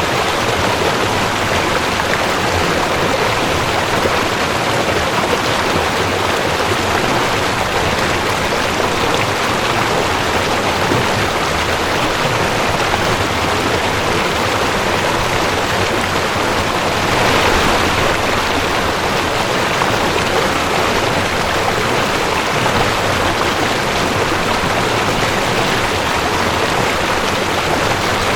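Cold mountain stream rushing over rocks, a steady dense water noise with a brief swell about two-thirds of the way through.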